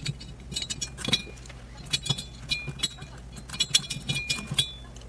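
A hand tool working the cylinder-head nuts of a two-stroke bicycle engine as the head is tightened down: irregular metal clicks and clinks, some with a short ring.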